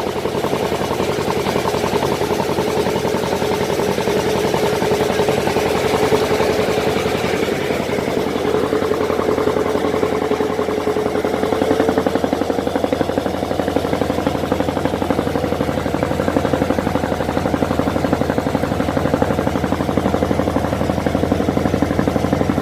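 Tour boat's engine running steadily under way, a fast, even chugging whose pitch drifts slightly up and down.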